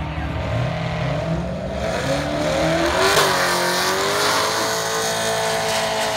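Two Chevrolet Corvette V8s launching off a drag strip start line: engine pitch climbs from about two seconds in, a short burst of noise comes about three seconds in as they leave, then the engines pull steadily away down the track.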